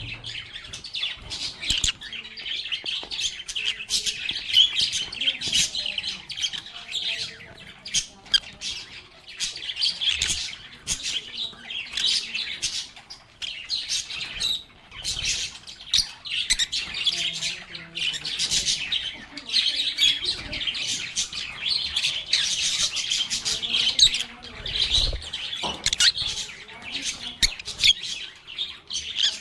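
A group of lovebirds chirping and chattering continuously, a dense stream of high-pitched calls with a brief lull about halfway through.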